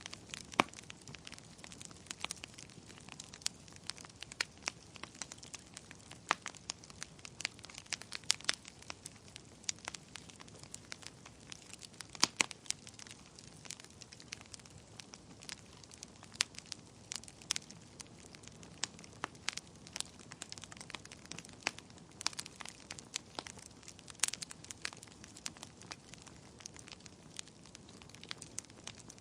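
Wood fire burning in a fireplace, crackling with irregular sharp pops and snaps over a low hiss.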